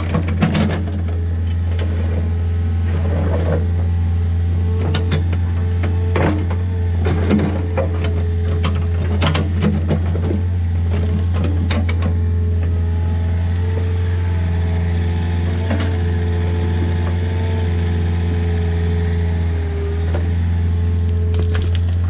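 Compact excavator's diesel engine running steadily under load, with a faint hydraulic whine that rises and falls. Over it come knocks and rattles of the bucket moving rock and dirt, frequent in the first half and thinning out after about twelve seconds.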